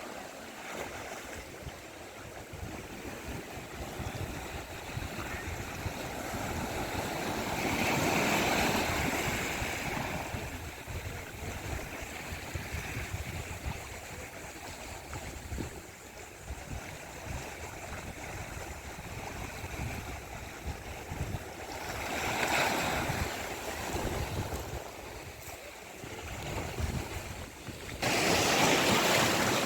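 Sea surf: waves breaking and washing up the shore as a steady rush, swelling louder about a quarter of the way in, again about three quarters in, and abruptly near the end. Wind rumbles on the microphone underneath.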